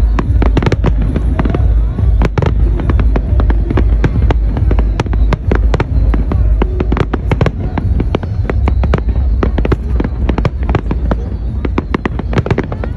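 Fireworks display: rapid, dense bangs and crackles going off continuously and overlapping, over a heavy low rumble.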